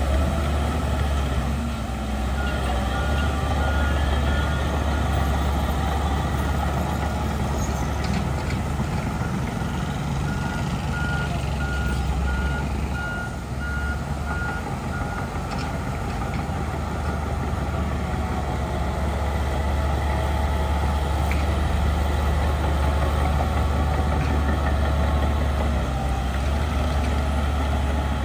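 Heavy diesel earthmoving machinery running steadily with a low rumble. A reversing alarm beeps in two runs: briefly a couple of seconds in, then for about five seconds in the middle.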